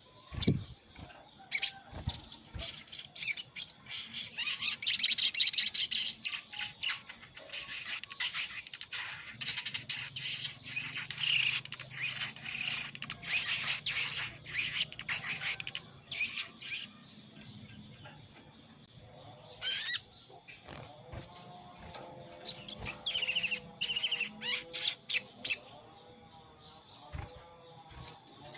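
Sogok ontong (sogon) calls played as a bird lure: quick, high chirps in dense rapid runs for the first half, then scattered single chirps, over a faint steady high tone.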